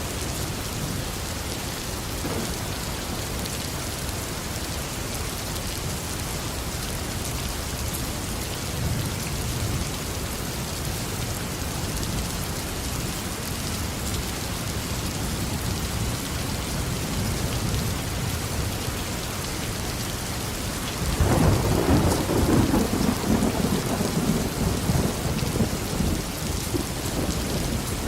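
Steady heavy tropical rain falling on a garden, with a faint low rumble of thunder about a third of the way in, then a sudden loud roll of thunder near the end that keeps rumbling.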